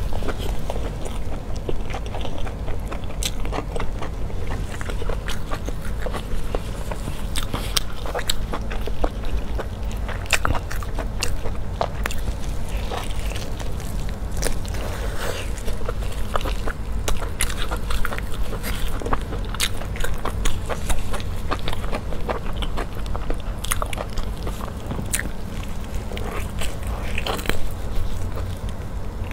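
Close-up chewing and biting of braised pig stomach: many short, sharp clicks and crackles from mouth and food throughout, over a steady low hum.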